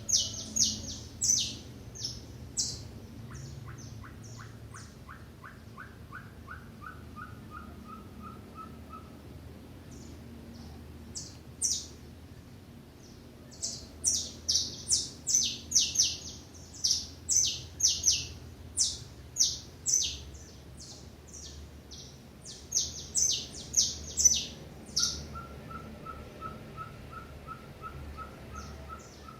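Small wild songbirds chirping: clusters of sharp, high, repeated chirps, with quieter stretches between. Twice a different, lower run of evenly spaced notes is heard, the first falling slightly in pitch and the second near the end staying level.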